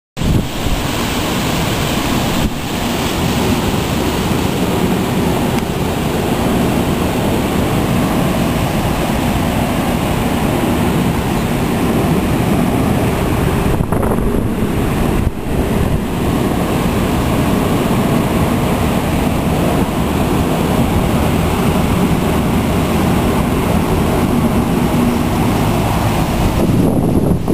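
Strong gusting wind blowing over the microphone: a loud, continuous rushing noise with two brief dips about halfway through.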